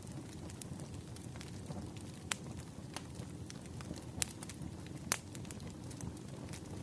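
Wood fire crackling: a steady low rumble with scattered sharp pops, the loudest about two, four and five seconds in.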